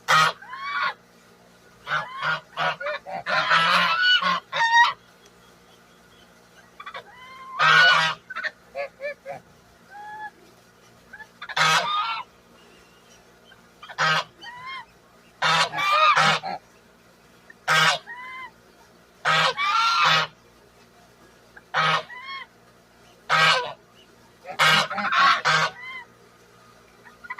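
Domestic geese honking: loud harsh calls in bursts every second or two, some in quick runs of several honks, with fainter short calls in between.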